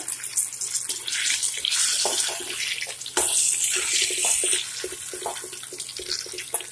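Parboiled potato wedges sizzling in hot oil in a wok, the hiss swelling about a second in and again around three to four and a half seconds as they are turned. A metal spatula scrapes and knocks against the pan while stirring.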